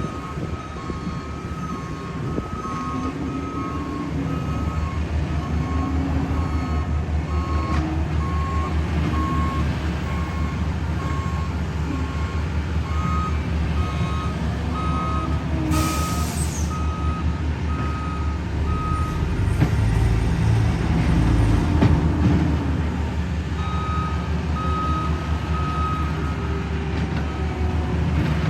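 Heavy diesel paving equipment running, with two reversing alarms beeping steadily at slightly different pitches; the engine note swells past the middle. A short hiss, like an air release, comes about halfway through.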